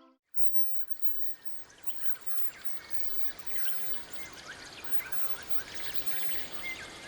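A chorus of many birds chirping and calling at once, fading in over the first couple of seconds and then holding steady.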